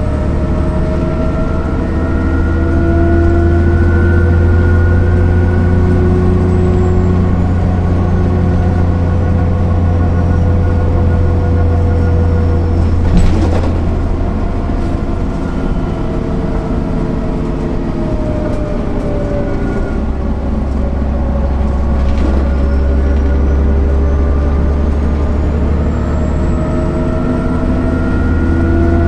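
MAN NL 262 city bus under way, its diesel engine and ZF automatic gearbox pulling. The engine note rises in the first few seconds, sinks slowly through the middle as the bus slows, and climbs again near the end, with a high whine that follows the engine. Two short sharp knocks come about halfway through and again a little later.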